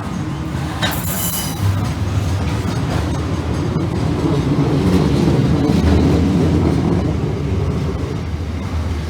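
Freight train rolling past at close range, its wagons rumbling over the rails, with a brief high-pitched wheel screech about a second in. The rumble grows louder toward the middle, then eases off.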